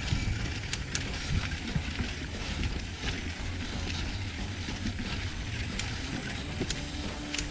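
Mountain bike riding over a dirt trail: a steady rumble of tyres and wind, with scattered clicks and knocks from the bike rattling over bumps.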